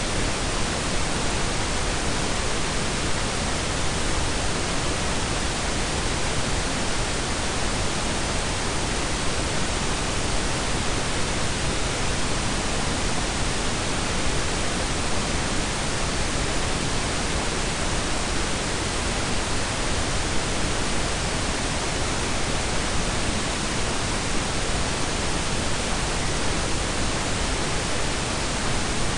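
Steady blend of pink and brown noise: an even, unchanging hiss with a deep rumble underneath, with no events or changes.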